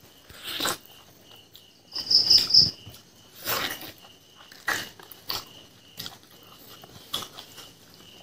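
Close-up mouth sounds of biting and chewing fried pork leg meat, in short irregular bursts several times over. A cricket chirps steadily in the background.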